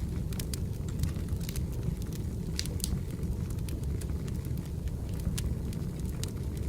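Wood fire burning: a steady low rumble with sharp crackles and pops from the burning firewood, several a second, with two louder pops just under three seconds in.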